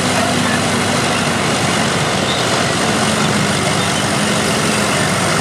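Heavy diesel engines of vintage bulldozers and scrapers running together, a steady engine sound whose note shifts slightly in pitch partway through.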